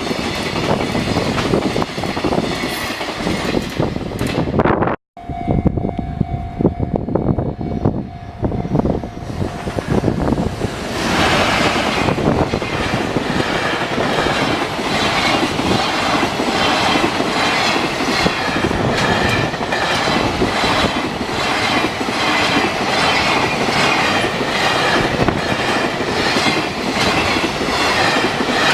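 A train, likely a freight train, passing close by at a level crossing, its wheels clattering over the rail joints in an even rhythm. The sound breaks off for an instant about five seconds in, and a steady tone follows for a few seconds.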